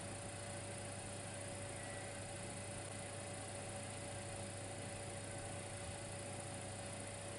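Dimplex electric fireplace running: a steady low hum with a faint high steady tone and an even hiss, unchanging throughout.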